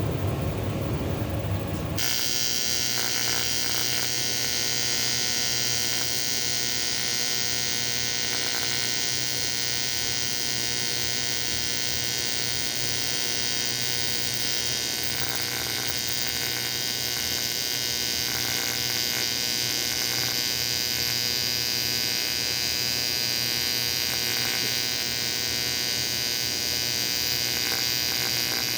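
TIG welding arc on an aluminum AFR cylinder head, struck about two seconds in and then held steady as filler rod is flowed into the deck.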